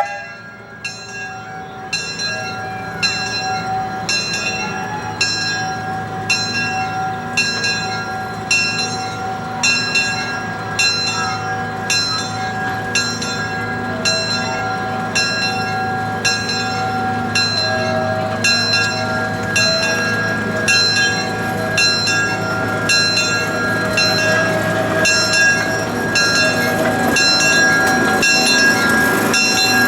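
Locomotive bell of the 0-4-0 Tracy Lynn #19 ringing steadily, a bit under two strokes a second, over the rumble of the moving train and some drawn-out wheel squeal.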